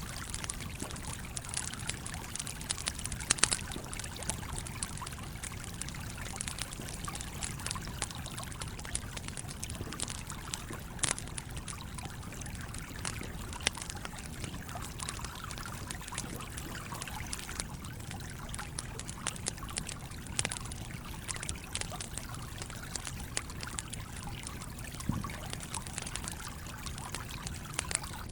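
Campfire crackling with irregular sharp pops, a few of them louder, over the steady trickling flow of a stream.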